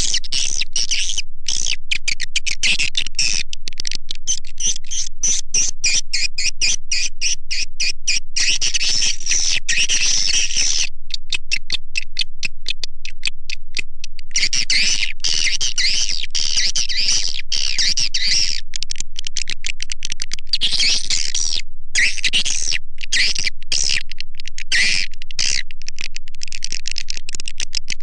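Swiftlet lure-call recording: a dense stream of rapid, high-pitched swiftlet chirps and twitters, the kind played from swiftlet houses to draw the birds in to nest. The stream thins out for a few seconds around the middle.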